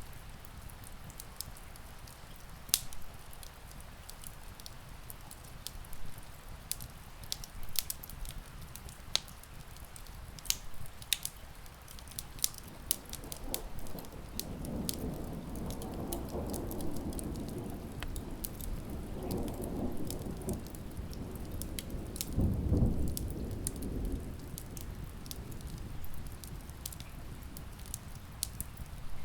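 Steady rain and a crackling wood fire, with many sharp crackles and snaps. About halfway through, a low rumble of distant thunder rolls in, swells to its loudest a few seconds before the end and then fades.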